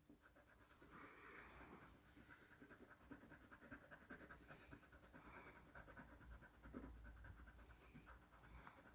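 Faint scratching of a colouring tool on paper as a child colours in a worksheet.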